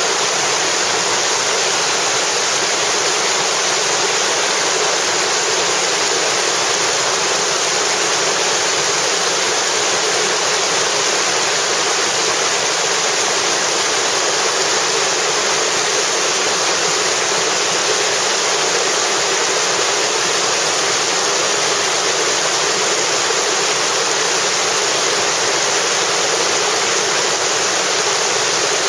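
White-water river rapids rushing, a loud steady roar of water that does not change.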